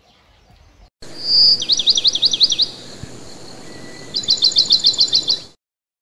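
A bird chirping in two quick trills: a run of rapid up-and-down chirps, a pause, then a second run of about ten evenly spaced chirps. It starts and cuts off abruptly.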